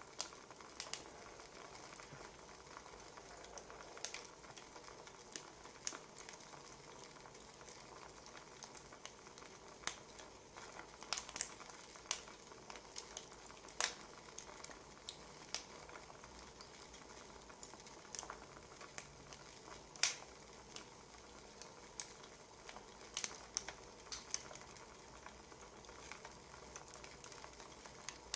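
Wood fire crackling: irregular sharp pops and snaps, some louder than others, over a faint steady hiss.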